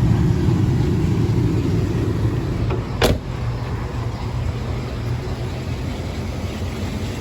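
Two-door Chevrolet Tahoe idling with its A/C on, a steady low rumble. A single sharp click or knock comes about three seconds in, after which the rumble is a little quieter.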